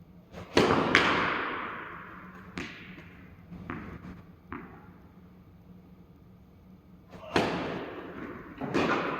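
Tennis balls struck by rackets and bouncing during play: a string of sharp pops, each trailing off in an echo. The loudest come about half a second and a second in and again after seven seconds, with softer ones between.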